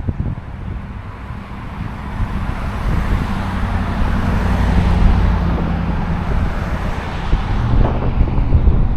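A motor vehicle passing on the road: tyre and engine noise swell to a peak about halfway through and then fade away, over a low steady hum. Wind rumbles on the microphone.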